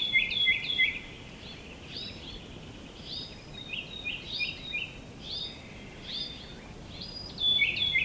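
A songbird singing short phrases of quick high chirps, repeated every second or two, over a faint steady background hiss.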